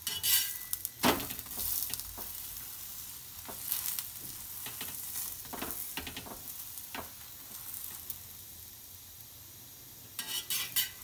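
Oiled paratha sizzling on a hot tawa, with a metal spatula pressing on it and scraping against the pan several times, including a short run of scrapes near the end.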